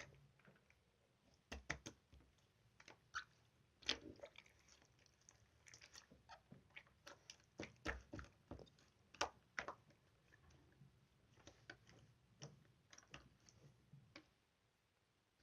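Clear slime being squeezed and pressed by hand, giving irregular wet clicks and pops. The sounds stop suddenly about a second before the end.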